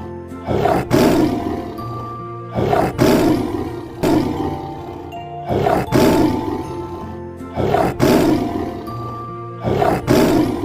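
Background music with a short, harsh animal roar laid over it. The roar comes as a quick double call, repeating in an even rhythm about every two and a half seconds.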